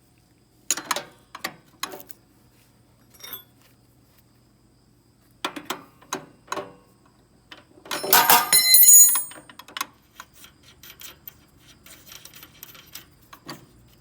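Metal clinks and rattles of a wrench working a nut off a snowblower shaft, with small steel parts knocking together. About eight seconds in comes a louder, brief burst of ringing metal clatter.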